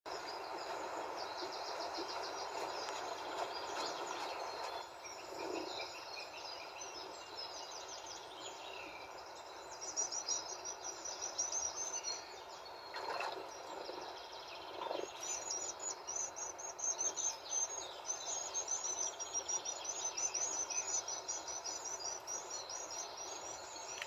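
Bird song: quick runs of short, high chirps over a steady hiss. The chirping grows busier about ten seconds in and runs in fast, close trains near the end.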